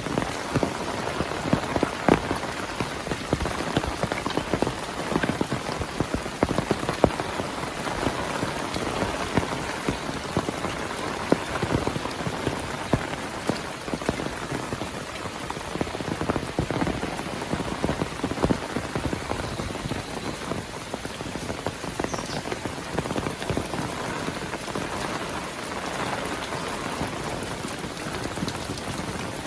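Heavy monsoon rain falling steadily, a dense hiss of close-spaced drops pattering on surfaces.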